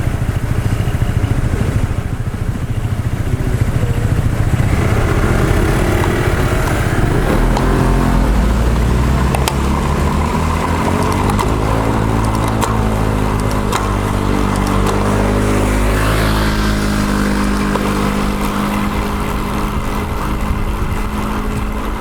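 Traffic noise: low rumble at first, then from about five seconds in a nearby motor vehicle engine whose pitch rises and falls as it revs.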